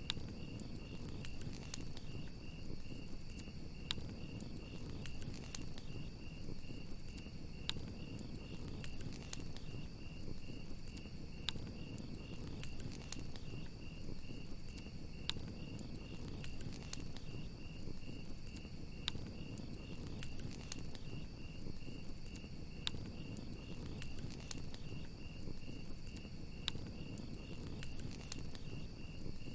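Crickets chirping in a steady, rapid pulse over a crackling wood fire, with scattered sharp pops from the fire and a low rushing sound beneath.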